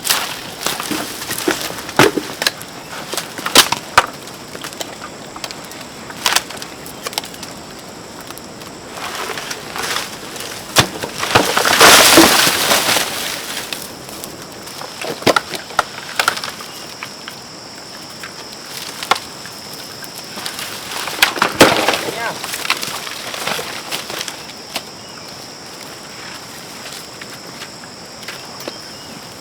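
Wood cracking and splintering with repeated knocks, and a longer crash of falling debris about twelve seconds in and again around twenty-two seconds.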